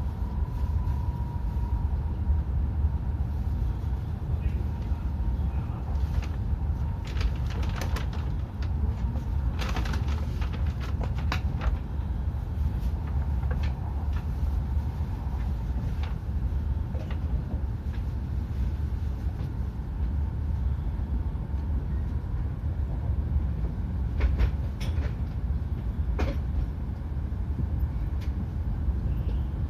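Tohoku Shinkansen train running as it nears its stop, heard inside the passenger cabin: a steady low rumble with scattered clicks and knocks. A faint high whine in the first part fades away.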